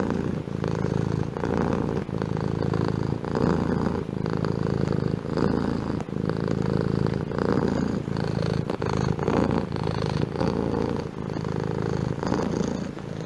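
Domestic cat purring steadily and continuously, swelling and dipping every one and a half to two seconds as it breathes in and out.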